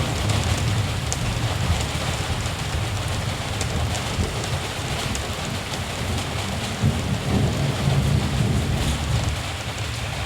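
Steady rain falling, with scattered drop ticks, over a low continuous rumble of distant thunder that swells slightly in the second half.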